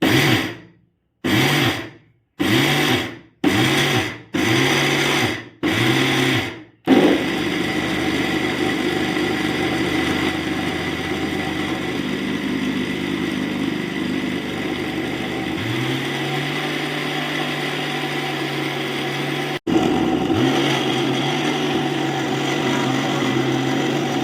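Havells mixer grinder grinding soaked rice into flour: first pulsed in about seven short bursts, each spinning up and winding down, then run continuously. It cuts out briefly near the end and starts again.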